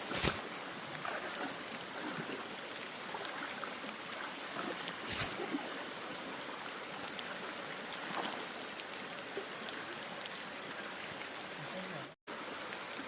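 Stream water rushing steadily, its flow strong. Two brief sharp sounds cut through it, one just after the start and one about five seconds in. The sound drops out for an instant near the end.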